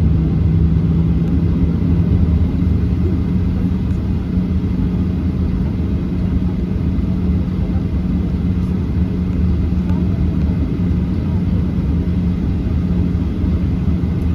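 Jet engines of a Boeing 737-800 heard from inside the passenger cabin: a steady low drone with a constant hum, unchanging throughout.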